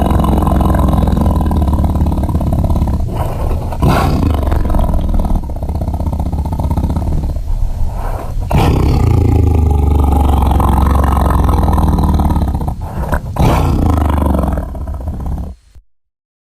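Sound-designed Daspletosaurus roars layered from lion and wolf recordings: long, deep roars with a heavy low rumble, one after another, cutting off suddenly near the end.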